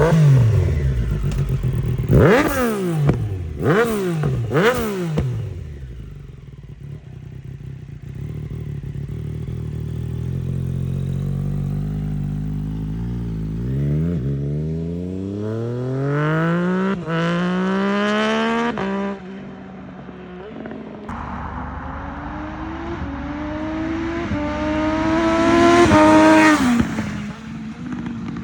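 Triumph Street Triple 765 RS inline three-cylinder engine through a full Spark exhaust system, de-catted, with a Konix Evo end can, heard while riding. Three quick rev blips come a couple of seconds in. After a quieter stretch, a long pull climbs in pitch, breaks at a gear change, and climbs again before dropping off near the end.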